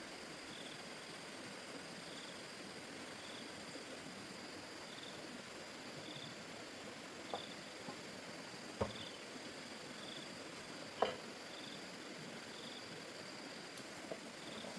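Quiet outdoor background of insects: short high chirps repeating about once a second over a steady high drone. A few sharp clicks or knocks stand out around the middle, the loudest one about eleven seconds in.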